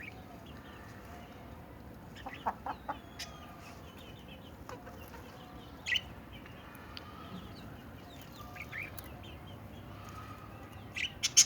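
Pair of parrots calling: scattered short squawks and chirps, with a louder run of harsh squawks near the end.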